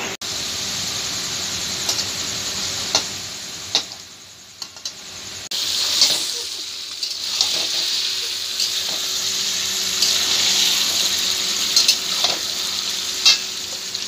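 Chicken pieces and sliced onions sizzling as they fry in a metal wok, stirred with a flat spatula that clicks and scrapes against the pan now and then. The sizzle drops for a moment about four seconds in, then comes back.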